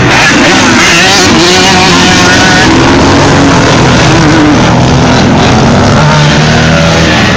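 Vintage motocross bikes racing, several engines revving up and down at once, loud and harsh on a phone microphone.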